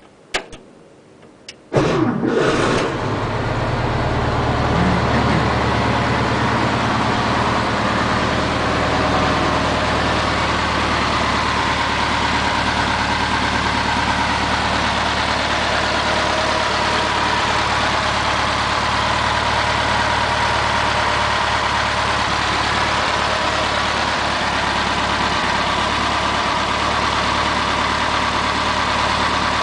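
1957 Volkswagen Beetle's air-cooled flat-four engine starting: a couple of clicks, then it catches about two seconds in and settles into a steady idle. It is freshly reinstalled with a rebuilt carburettor, new intake manifold and new ignition parts.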